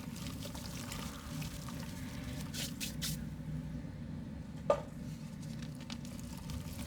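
Soft mud being crumbled into water: wet squishing and dripping, with one sudden sharp plop about two-thirds of the way through.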